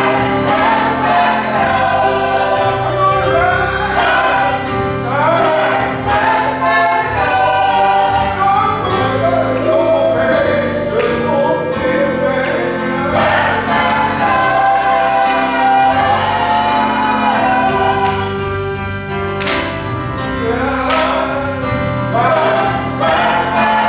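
Church choir singing a gospel song over instrumental accompaniment, with long held and sliding vocal lines.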